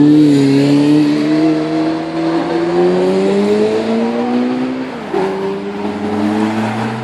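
A car engine accelerating hard: its pitch climbs steadily for about five seconds, drops sharply at an upshift, then holds as it pulls in the next gear.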